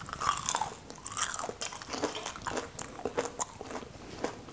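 Biting into and chewing a crispy fried bread finger coated in gram-flour and cornflour batter: a quick run of crisp crunches close to the microphone, the loudest about a second in. The crunch is the sign of the crisp coating that the cornflour gives.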